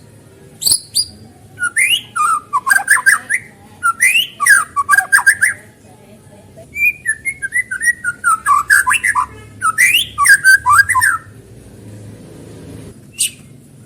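White-rumped shama singing: rapid, varied whistled phrases in two long runs, about 2 to 6 seconds in and again about 7 to 11 seconds in, with sharp clicking notes before, between and after them.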